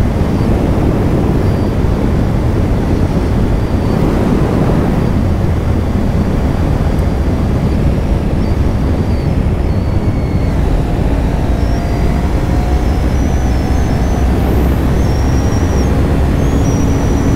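Kawasaki Ninja 500 under way on the road: a steady rush of riding noise, wind on the microphone with the parallel-twin engine running underneath, even throughout.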